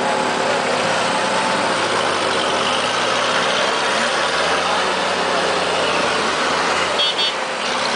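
Off-road 4x4 engine running steadily while the vehicle crawls up a steep rocky climb.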